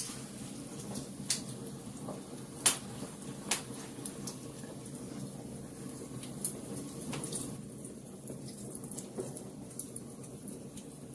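Wood fire burning in a fireplace, crackling: scattered sharp pops over a steady low rush of the flames, the loudest pop a little under three seconds in.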